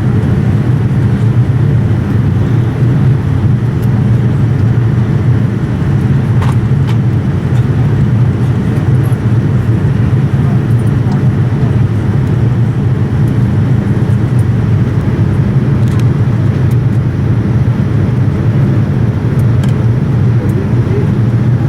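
Steady low cabin noise inside a Boeing 787-9 airliner: a constant rumble of engines and airflow, with a few faint clicks.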